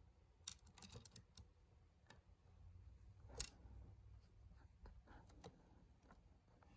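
Faint, scattered small clicks and taps over a low hum: a quick run of them in the first second and a half, a sharper single click about midway, and a few more later on.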